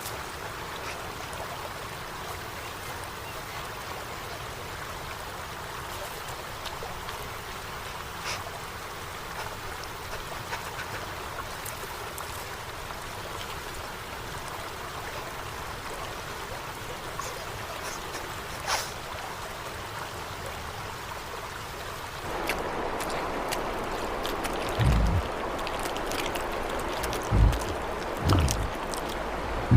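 A steady rushing, watery noise. About 22 seconds in it becomes louder and coarser, with a few short low thumps near the end.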